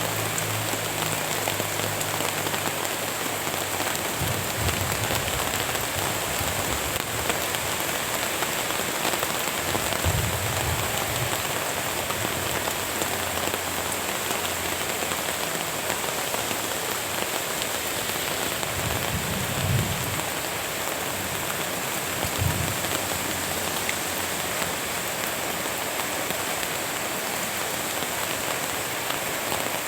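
Steady rain falling, an even hiss throughout, with a few soft low thumps.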